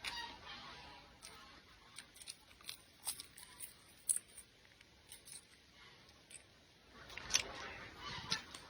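Close-up eating sounds: scattered small clicks and soft chewing, with a louder stretch of mouth noise lasting over a second about seven seconds in.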